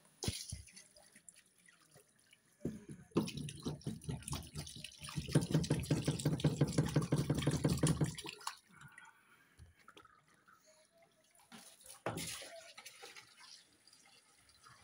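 Water pouring and splashing, loudest for a few seconds mid-way, with scattered drips and a couple of knocks.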